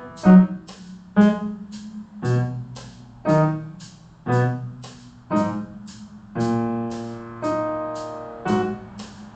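Piano playing slow struck notes and chords, about one a second, each fading away, with the last one near the end. A steady click about twice a second runs under the notes and carries on after them.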